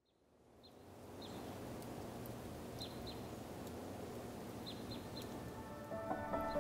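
Outdoor dawn ambience fading in: a steady low background hum with short, high bird chirps scattered through it. Music begins near the end.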